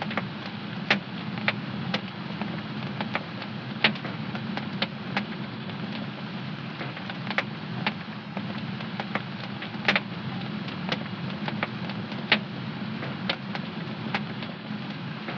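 Wood fire crackling in a home fireplace: irregular sharp pops and snaps, a few of them louder, over a steady low sound of burning.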